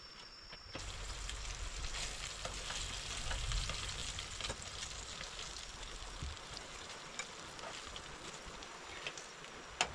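Food sizzling as it fries in a little oil in a pan. The sizzle starts suddenly about a second in and is strongest a few seconds later, with a few light clicks and one sharper click near the end.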